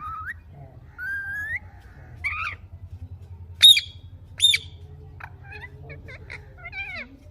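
Ringneck parrots calling: rising whistles in the first couple of seconds, then two loud, sharp screeches about three and a half and four and a half seconds in, followed by quick chattering calls.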